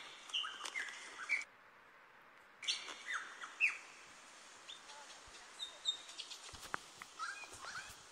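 Wild birds chirping: short calls that glide up and down in pitch, in two quick clusters during the first four seconds, then sparser and fainter.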